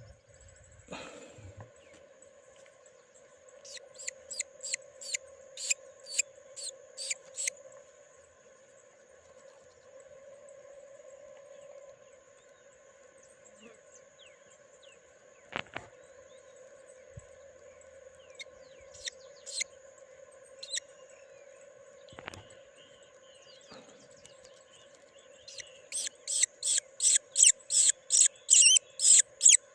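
Young birds chirping in quick runs of sharp, high cheeps, about two to three a second: one short bout early on and a louder one near the end. A steady hum sits underneath throughout.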